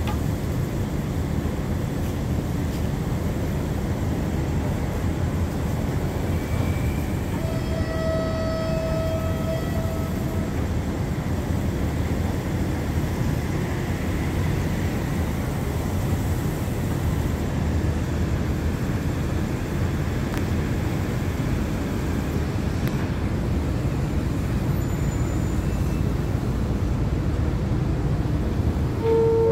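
Steady low rumble of a passenger train at the station platform. About a quarter of the way in, a pitched tone sounds for two or three seconds over it.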